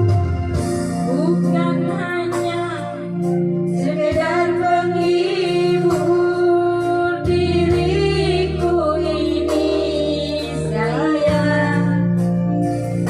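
A woman singing a melody with strong vibrato over an electronic keyboard organ accompaniment with sustained chords and a steady bass line.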